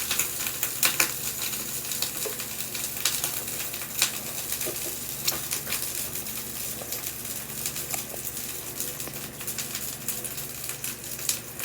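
Close-up eating sounds of someone chewing black bean noodles (jjajangmyeon): irregular small wet clicks and smacks over a steady hiss.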